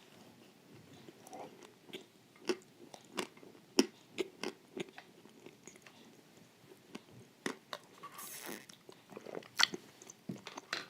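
Close-up eating sounds of someone biting and chewing crisp wafers with cream: irregular sharp crunches and soft chewing, with a brief hiss a little after eight seconds.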